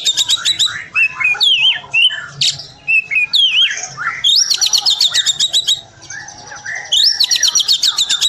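Oriental magpie-robin (kacer) singing an agitated, loud song: three rapid high trilled bursts, at the start, about four seconds in and near the end, with slurred, falling whistled notes between them.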